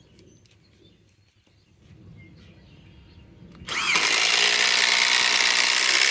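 Harbor Freight Hercules 2,200 in-lb impact driver driving a lag screw into wood. It starts about two-thirds of the way in, hammers steadily for about two and a half seconds, then stops.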